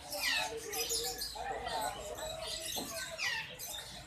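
Small birds chirping: many short, high, falling chirps repeated throughout, over a background murmur of voices.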